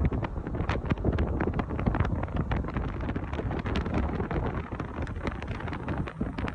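Wind buffeting the microphone with crackling pops, over the low rumble of a moving car.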